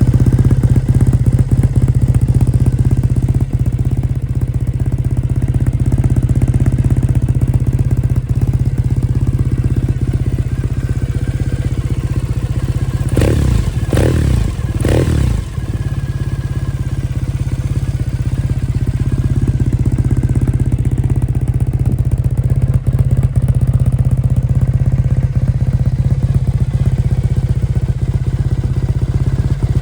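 Triumph Thruxton 900's 865cc parallel-twin idling steadily through an Arrow 2-into-1 exhaust, with three quick throttle blips about halfway through.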